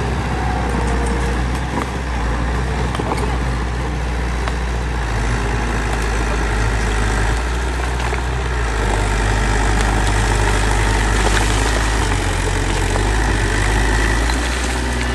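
A bulldozer's heavy diesel engine runs steadily under load with a low drone, a little louder in the second half, and faint clanks.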